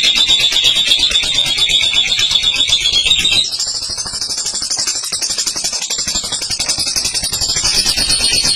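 Lovebird ngekek: one long, unbroken run of rapid high-pitched chattering notes, loud. About three and a half seconds in it shifts higher and a little quieter, then drops back near the end.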